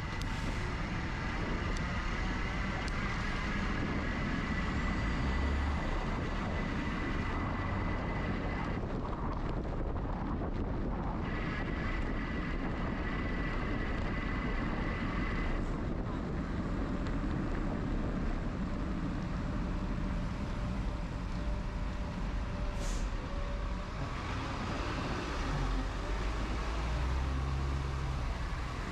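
Street traffic and road noise heard from a moving bicycle, with wind rumbling on the microphone. A thin, steady high whine runs for long stretches, cutting out about nine seconds in, returning a couple of seconds later and stopping near the middle.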